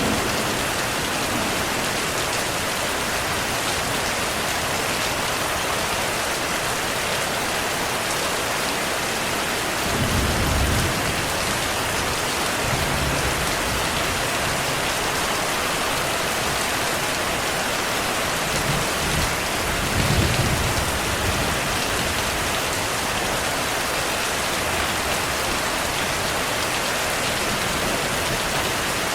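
Heavy, steady rainfall, with low rumbles of thunder swelling about ten seconds in and again around twenty seconds.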